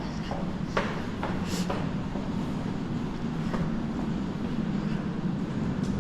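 Steady low rumble of a train at the station, with a few scattered footsteps or knocks over it.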